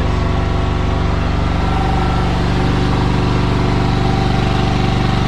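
Yanmar excavator's diesel engine running steadily at a constant pitch.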